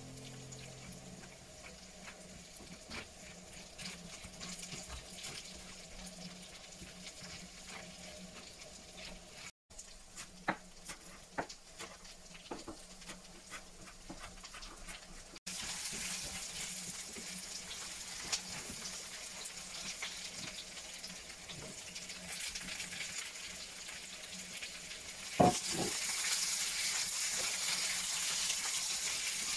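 Onions and garlic sizzling in oil in a frying pan, a steady hiss, with a few sharp knife taps on a wooden chopping board partway through. Near the end there is a loud knock as chopped bell peppers go into the pan, and the sizzle gets louder.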